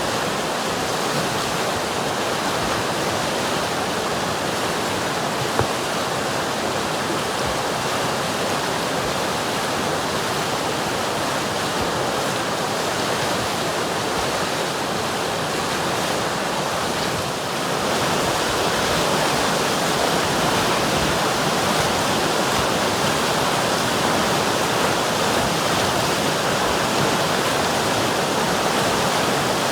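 River water rushing in a steady, even flow, with a brief dip a little past halfway and slightly louder after it.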